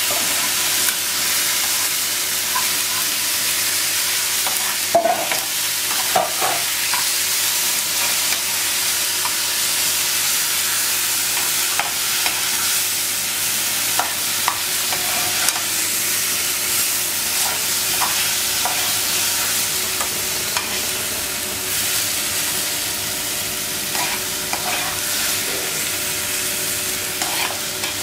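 Chopped tomatoes and vegetables sizzling in hot oil in a frying pan, with a metal spoon stirring them and now and then scraping and clinking against the pan.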